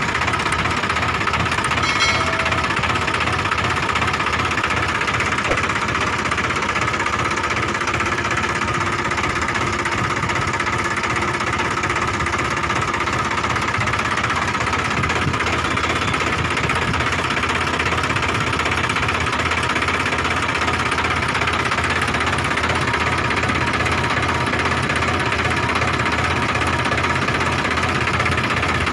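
Tractor diesel engine running steadily, with a fast, even knocking beat.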